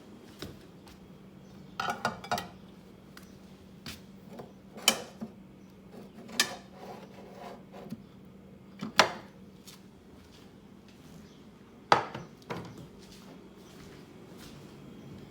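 Dishes and utensils clinking and knocking, a handful of sharp separate strikes spread a few seconds apart, over a low steady hum.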